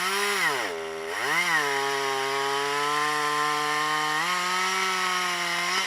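Two-stroke chainsaw revved up and down twice, then held at a steady high speed, its pitch stepping up a little about four seconds in.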